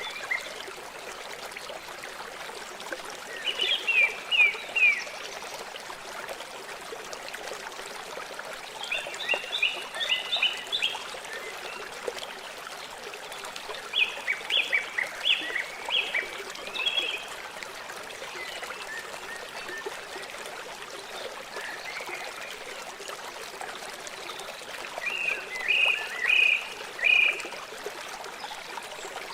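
River water flowing steadily. Over it, an animal calls four times in short rapid series of high notes, about three, nine, fourteen and twenty-five seconds in; these calls are the loudest sounds.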